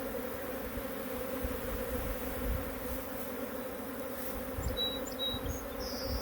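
Many honeybees buzzing in a steady hum, flying around and in and out of hive boxes where swarms have just been hived and have not yet settled.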